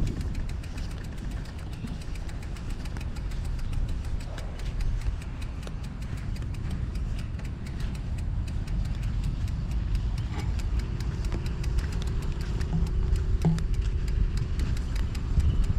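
City street traffic heard from a bicycle: motor vehicle engines running close by over a steady low rumble, with a steadier engine hum joining about two-thirds of the way through.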